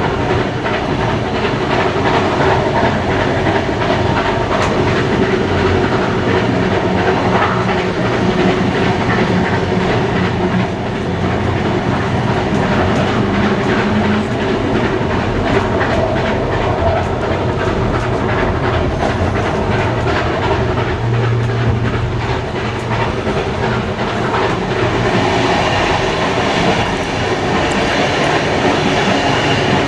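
Steam-hauled heritage passenger train running along the line: a steady rumble with the wheels clicking over the rail joints.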